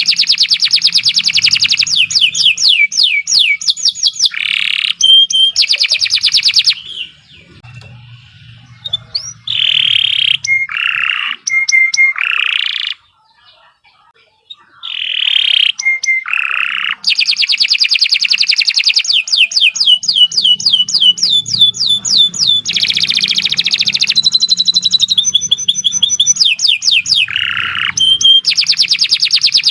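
Domestic canary singing long, fast trills of rapidly repeated high notes, broken by short gaps and one brief pause about halfway through.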